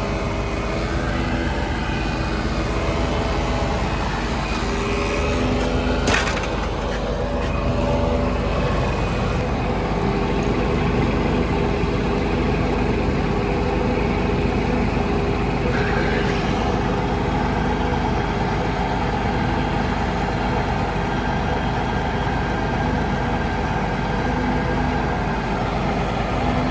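Scania R124 truck's 12-litre inline-six diesel engine running steadily, with one sharp click about six seconds in.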